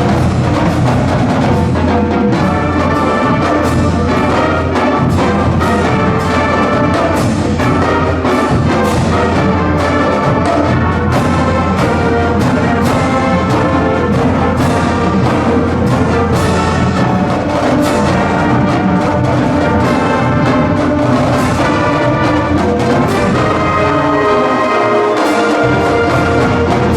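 Full marching band playing: brass section over a drumline's steady beat.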